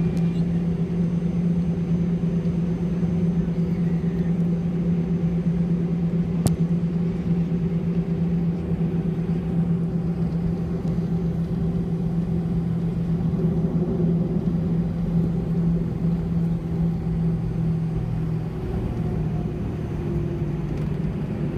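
Steady low engine hum inside the cabin of a 1990 Airbus A320-211 taxiing with its CFM56 engines at idle, with a single click about six seconds in. The hum's tone shifts slightly near the end.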